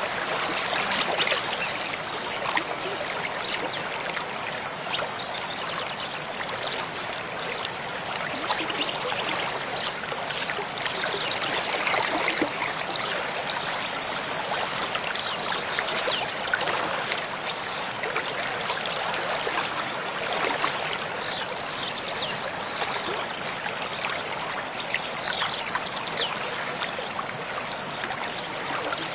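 Mountain stream babbling steadily over rocks, a continuous rush of water full of small splashes and trickles.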